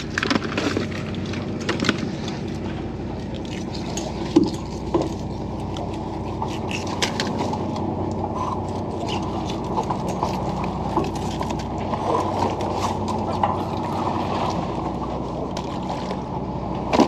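Steady low drone of a vessel's engine, with water sloshing and a few scattered clicks and knocks, the sharpest about four seconds in.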